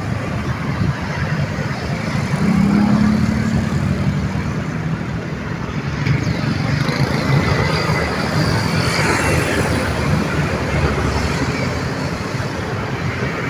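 Steady, dense road traffic: cars, trucks and motorcycles passing continuously, with a heavier vehicle's engine hum rising about two and a half seconds in and another vehicle sweeping past near the middle.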